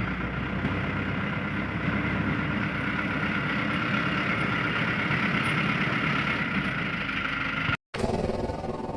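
Truck engine running steadily, with a brief cut to silence near the end.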